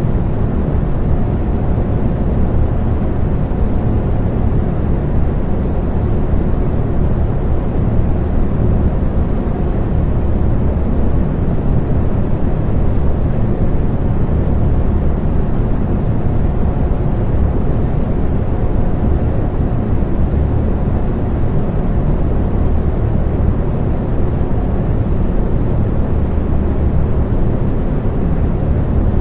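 Electric fan running steadily: a low, even noise with a faint steady hum.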